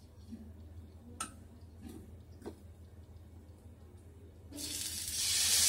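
A few light knocks, then loud sizzling starts about four and a half seconds in as paneer tikka skewers go onto a hot oiled tawa and keeps going.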